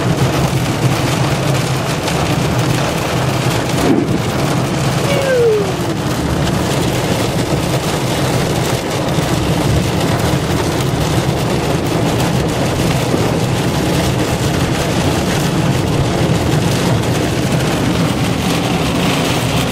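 Heavy rain pelting a moving car, heard from inside the cabin, with a steady low rumble of the engine and tyres on the wet road underneath.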